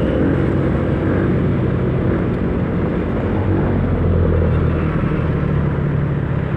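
Riding noise from a motor scooter on the road: the engine running steadily under a loud rush of wind and traffic noise.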